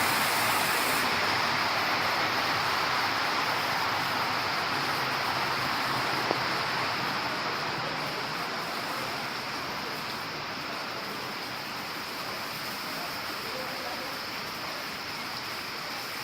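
Heavy rain falling steadily, a dense even hiss that slowly gets quieter, with a single sharp tick about six seconds in.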